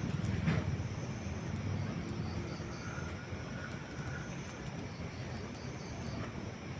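Wood campfire burning with a steady low rumble and a few sharp snaps and pops, the clearest about half a second in.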